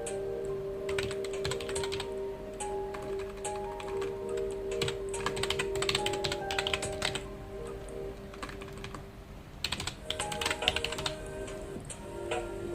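Typing on a computer keyboard: bursts of rapid keystrokes a second or two long, broken by short pauses, the longest about two-thirds of the way through. Soft background music with held notes plays underneath.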